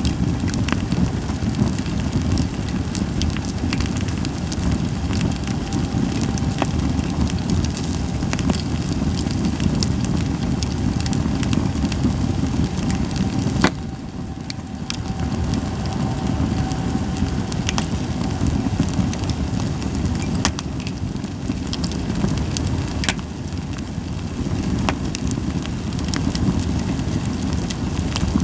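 Campfire of Japanese white pine crackling and popping over a steady low rush, with one sharper pop about halfway through.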